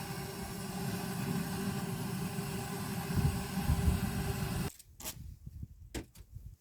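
A steady low mechanical hum that cuts off suddenly about two-thirds of the way through, followed by a few faint clicks and knocks.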